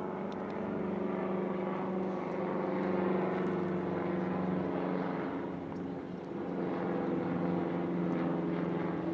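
An engine running steadily, a low, even drone with a nearly constant pitch.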